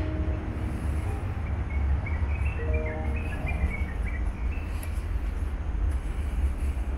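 Birds chirping, a string of short high notes from about two to five seconds in, over a steady low rumble. The last held notes of background music fade out right at the start.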